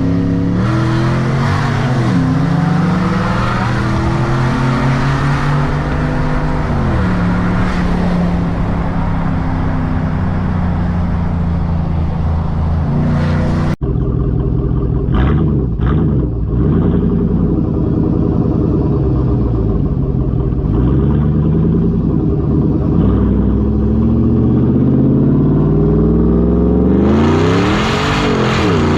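Ford F-150 Raptor's 6.2-litre V8 with a loud aftermarket exhaust, accelerating hard at full throttle, its pitch climbing and dropping back at each upshift of the automatic gearbox. About halfway through the sound changes abruptly to a deeper, closer exhaust note with much less wind hiss.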